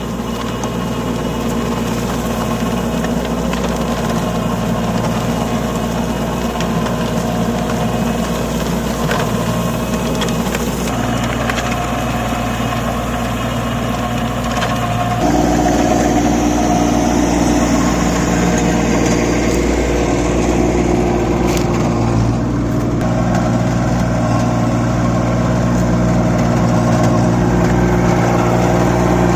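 Kubota 27 HP compact tractor's diesel engine running steadily while driving a rotavator. About halfway through the sound steps up, louder and a little higher, and holds there.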